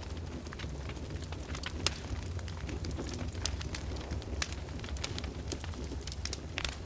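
Open fire in a fireplace crackling, with irregular sharp pops and snaps scattered throughout, over a low steady rumble.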